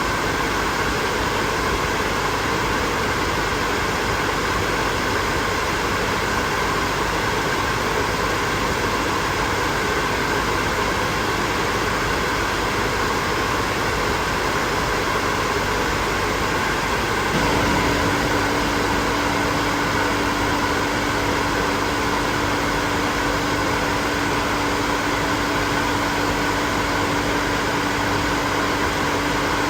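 Hair dryer running steadily, a constant rushing blow of air. About halfway through the sound shifts slightly and a steady low hum joins it.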